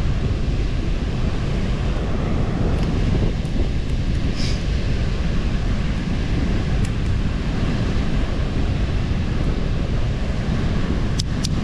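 Strong sea wind buffeting the microphone: a steady low rumbling roar, with a few faint clicks near the end.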